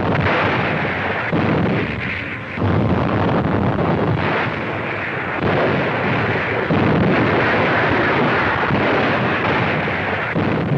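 Newsreel battle sound effects: a dense, continuous roar of explosions and gunfire, with several fresh blasts along the way.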